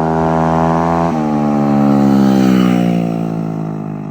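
Moped engine running hard at high revs; about a second in its pitch drops sharply, then keeps falling as it gets louder and then fades away.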